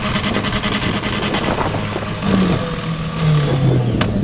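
Demolition derby car engines running hard and revving, the pitch rising and falling, while a car spins its tires on the dirt. A single sharp crack sounds near the end.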